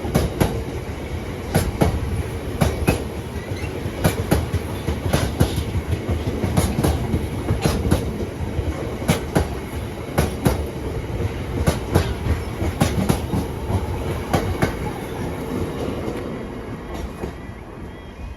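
Freight wagons of a Drax power station freight train rolling past at the level crossing, with a steady rumble and repeated clacks as the wheels cross the rail joints. The clatter fades away near the end as the train passes.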